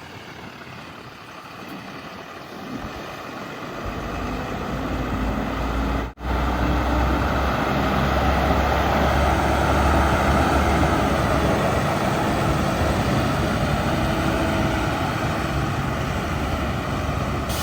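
Heavy diesel engine running, growing louder over the first few seconds, then loud and steady with a deep rumble after a momentary break about six seconds in.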